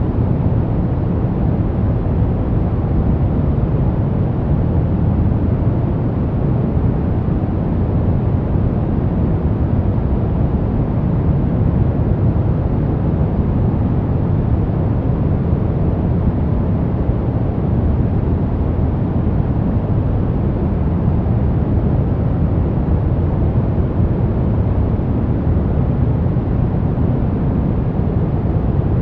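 Steady, unbroken noise for masking sound and helping a baby sleep, deep and low-pitched rather than a bright hiss, with no changes or events.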